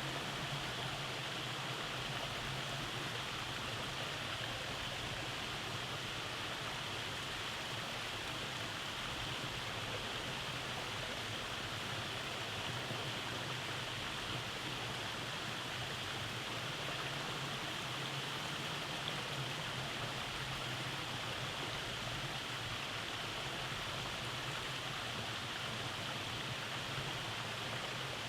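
Rainforest stream running over cascades, a steady rushing of water.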